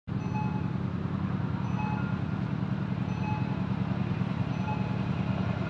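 Electric passenger train approaching along the line: a steady low rumble that grows slowly louder, with faint short ringing tones now and then.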